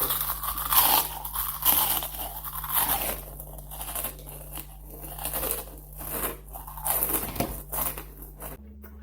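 Close-up crunching and chewing of crisp puffed potato snacks (Cofresh chilli and lemon grills), in a run of irregular crunches that stops shortly before the end.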